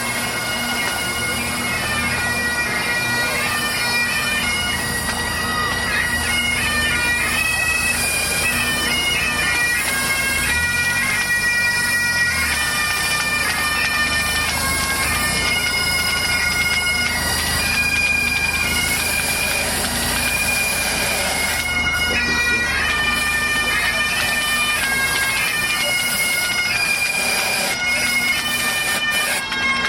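Pipe band's bagpipes playing a tune: the chanters step through a melody over a steady, unbroken drone.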